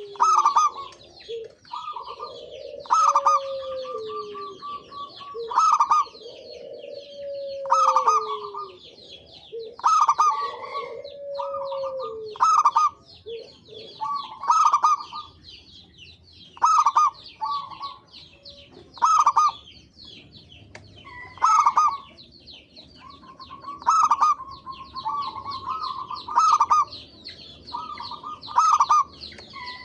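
Zebra doves (perkutut) cooing in short repeated phrases about every two seconds, over continuous high chirping of small birds. Lower falling calls are also heard through the first dozen seconds.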